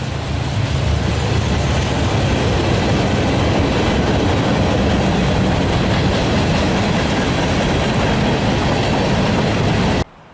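A train rolling past: a steady, loud rumble and rush of wheels on rail, which cuts off abruptly near the end.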